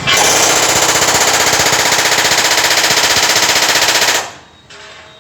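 Pneumatic shop tool hammering in a rapid, even rattle. It is very loud for about four seconds, then stops abruptly.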